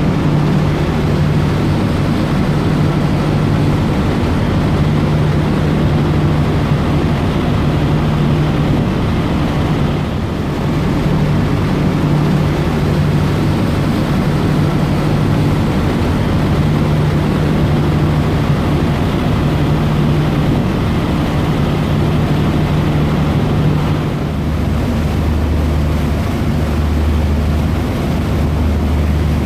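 Dubai Ferry's engines running steadily under way, a low steady drone over a constant rush of wind and water. The lowest part of the drone grows stronger about 24 seconds in.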